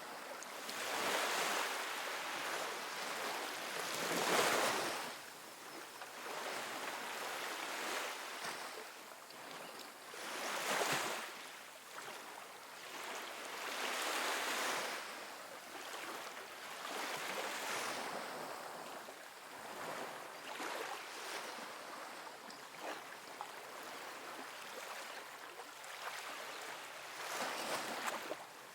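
Small ocean waves washing onto a sandy beach, the surf hiss swelling and fading every few seconds, loudest about four seconds and eleven seconds in.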